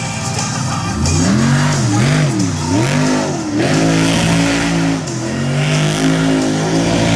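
Monster truck engine revving, its pitch swooping up and down several times, then settling into a steady high-rpm run.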